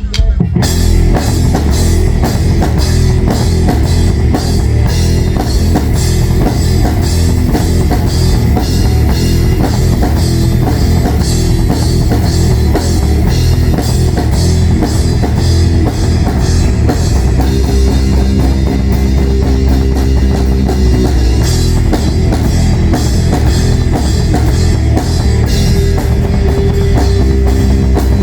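A rock band playing a song with drum kit and guitar, steady and loud, with no singing.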